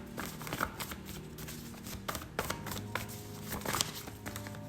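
Oracle cards being handled and shuffled: a scatter of soft flicks and taps, over quiet background music with long held low tones.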